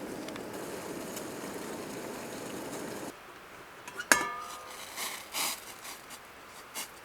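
A steady low rushing noise stops abruptly, then a glass clinks once with a short ring, followed by a few soft handling clinks.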